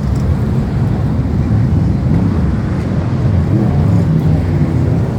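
BriSCA Formula 1 stock cars' V8 engines racing round the track, a loud continuous engine noise whose low pitch rises and falls as the cars lap.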